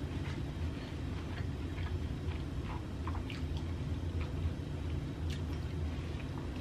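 A person chewing a mouthful of food with the mouth closed: faint, scattered soft mouth clicks over a steady low hum.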